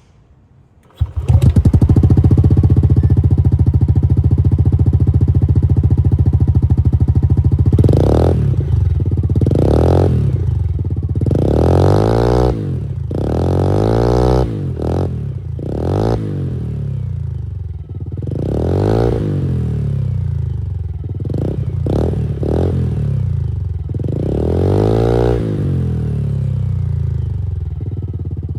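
Yamaha Cygnus Gryphus 125cc single-cylinder scooter engine through a Yoshimura exhaust with its baffle removed. It comes in abruptly about a second in, idles steadily, then is blipped on the throttle about nine times, each rev rising and falling back to idle.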